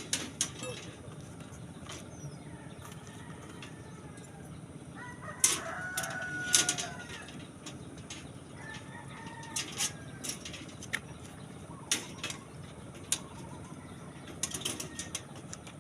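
Scattered sharp metallic clicks and clinks of hand work, with a rooster crowing once about five seconds in.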